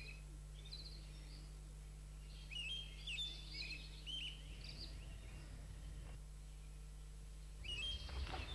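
Small birds chirping and twittering in short bursts, loudest a few seconds in and again near the end, over a faint steady low hum.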